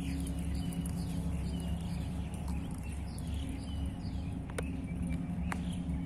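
Birds chirping in short, scattered calls over a steady low hum, with two sharper downward-sweeping notes near the end.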